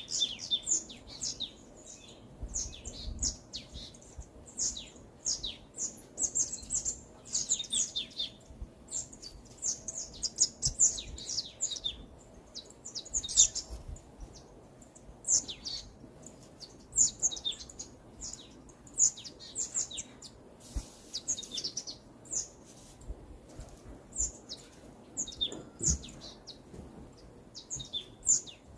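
Small songbirds chirping and singing, with quick high notes that sweep downward, coming in bursts of several notes with short pauses between them.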